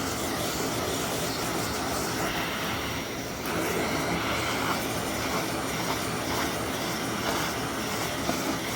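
Vacuum cleaner motor running steadily with a rush of air, with no breaks or changes.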